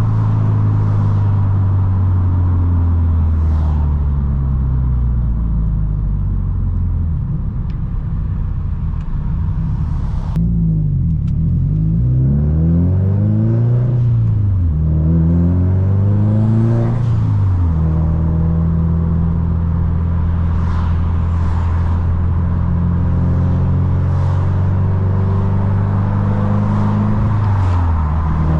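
Subaru STI's turbocharged flat-four engine and exhaust under way. The engine note falls steadily for the first several seconds, then rises and falls in quick swells through the middle as the car accelerates and shifts. It settles into a steady cruise, then dips and picks up again near the end.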